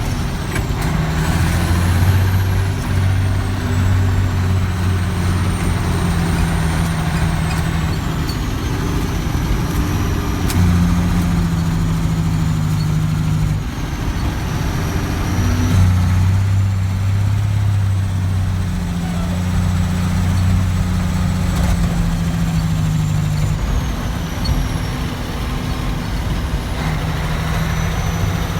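Heavy diesel truck engine running loud, its deep drone shifting up and down in pitch several times, with a faint high whistle gliding up and down above it.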